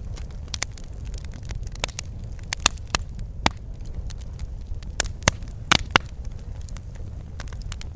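Wood fire burning in a fireplace: a steady low rumble of flames with irregular sharp crackles and pops, a few louder pops about halfway through.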